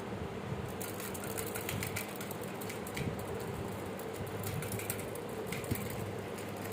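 Steady mechanical hum, with many quick, light clicks and scratches over it from about a second in.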